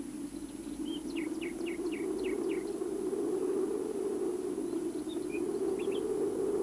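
Cartoon outdoor ambience: a steady low whoosh of wind with birds chirping. A quick run of about six short falling chirps comes about a second in, and a few scattered chirps follow later.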